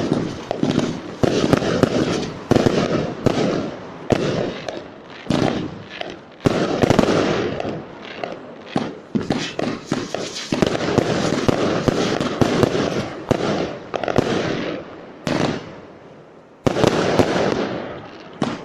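Fireworks display going off without pause: a rapid run of launch thumps and aerial bangs, with crackling between them. There is a short lull near the end, then another volley.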